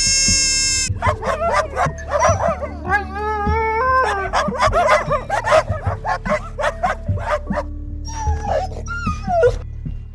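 A rapid run of short, high yipping and whimpering animal calls, many bending up or down in pitch, over steady background music.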